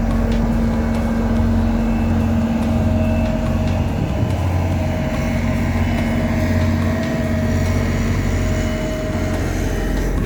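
Heavy road-paving machinery running steadily, an engine's low, even rumble with a held hum.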